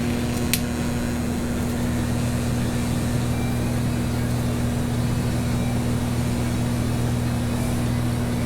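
Steady low electrical hum from the arc-welding setup, with a deeper layer coming in about two seconds in.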